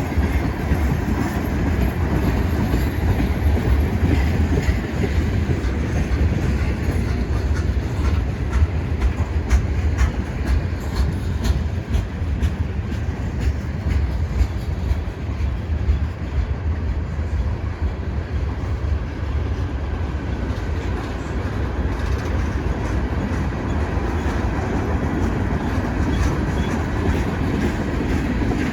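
CN freight train's cars rolling past: a steady low rumble of steel wheels on rail, with scattered wheel clicks over rail joints.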